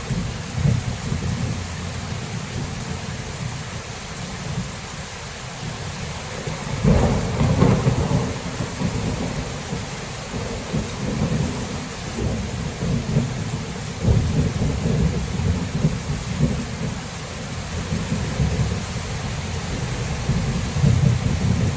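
Steady rain falling through a thunderstorm, with thunder rumbling low underneath. A louder roll of thunder swells about a third of the way in, and further rolls come in the second half.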